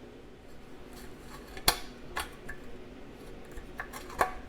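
Aircraft snips cutting 20-gauge sheet steel: a few sharp metallic snaps as the jaws close, the loudest about a second and a half in and another near the end.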